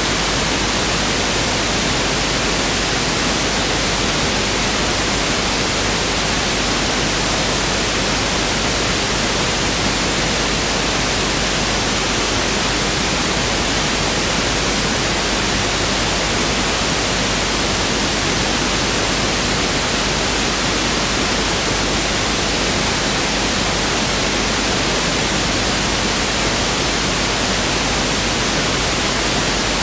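Pink noise (1/f noise) test signal: a steady, unchanging hiss.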